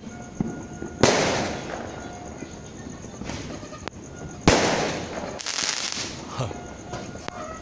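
Fireworks going off: two loud bangs, about a second in and about four and a half seconds in, each trailing off slowly, with a stretch of crackling after the second and a few smaller pops between.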